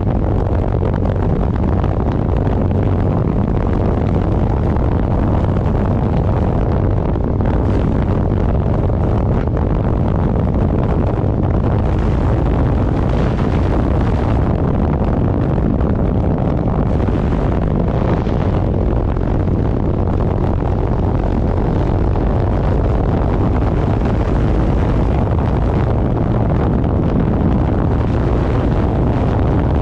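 Loud, steady wind rush buffeting the microphone over the low hum of a motorcycle engine running at a steady cruise.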